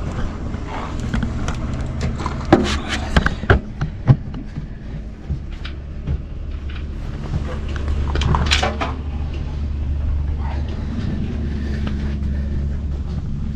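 Knocks and bumps of someone climbing down out of a stripped airliner cockpit, hands and shoes hitting the metal airframe, with a cluster of sharp knocks about three seconds in and a few smaller ones later. A steady low rumble runs underneath.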